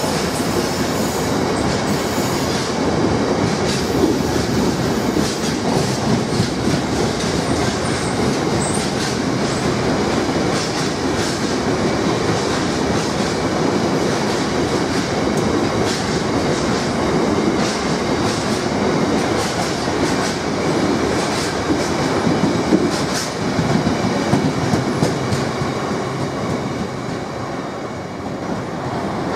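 Freight train of bogie hopper wagons rolling past at speed: a steady wheel-on-rail rumble with rapid clickety-clack over the rail joints and a thin wheel squeal in the first few seconds. The noise eases slightly near the end as the tail of the train draws away.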